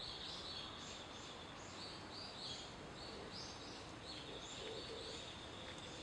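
Small birds calling: short high notes repeated about twice a second, with a long thin high note held at times, over a steady hiss of outdoor background noise.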